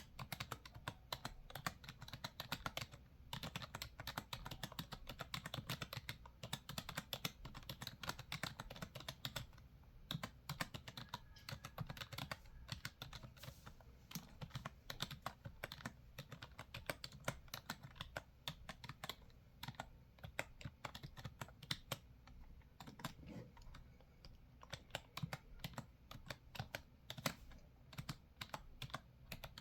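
Typing on a computer keyboard: a fast, irregular run of key clicks with a few brief pauses.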